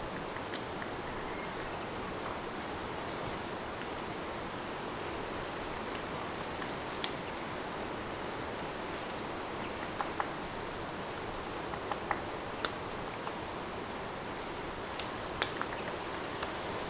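Steady rain, an even hiss with scattered sharp drip ticks, with short bursts of high chirping coming and going every second or two.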